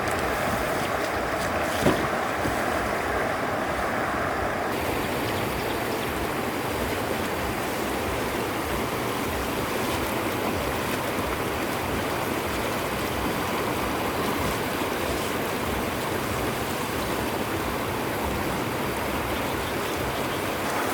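Running water rushing steadily, as of a stream, with a change in its sound about five seconds in.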